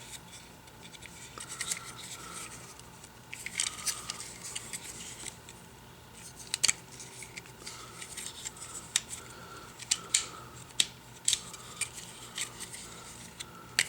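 Plastic parts of a Transformers Combiner Wars figure being handled and moved through its transformation: scattered sharp clicks and light scraping of plastic against plastic.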